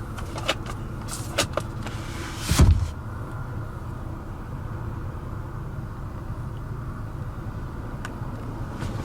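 A few sharp plastic clicks, then one heavy, deep thump about two and a half seconds in, as the rear fold-down armrest and its cup holders are handled in a 2015 Lexus NX 200t. A steady low hum of the running car lies underneath.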